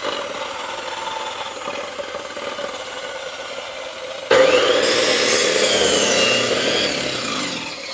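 Corded electric saw running at speed, then about four seconds in the blade bites into a log and the sound jumps to a loud, steady cutting through wood.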